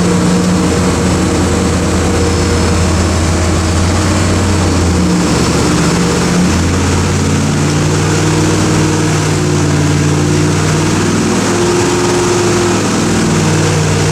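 383 Chevy stroker small-block V8 running steadily at low speed on an engine dyno while it warms up, its pitch shifting slightly a couple of times.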